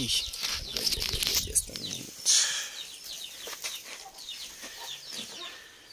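Birds chirping repeatedly in short falling chirps, with low rumbling handling noise in the first two seconds and a loud rustle about two seconds in.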